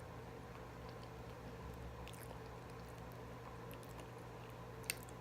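Faint chewing and mouth sounds of someone eating fried chicken, with scattered small clicks and one sharper click near the end, over a steady low hum.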